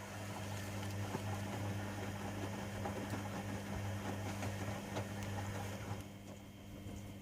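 Privileg Sensation 9245 washing machine running a wash: a steady motor hum under the noise of laundry and water tumbling in the drum. The tumbling noise drops away about six seconds in.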